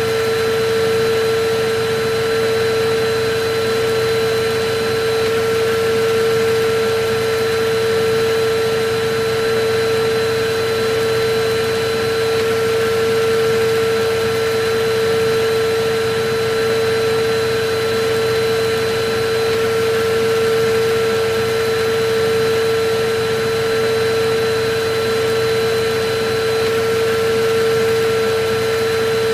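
Vacuum cleaner running steadily: a constant motor whine over an even rushing noise, swelling and easing slightly in loudness.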